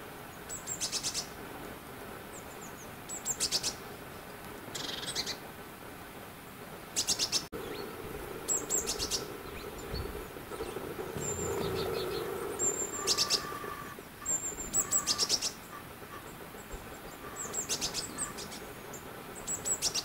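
Small woodland birds calling: short high-pitched bursts of rapid repeated notes, about eight of them, every two or three seconds.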